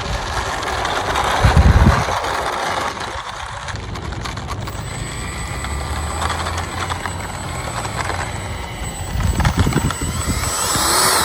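Twin 50 mm electric ducted fans of a radio-controlled Su-27 model jet whining in flight, with a whine rising in pitch near the end. Low rumbles swell about two seconds in and again near the end.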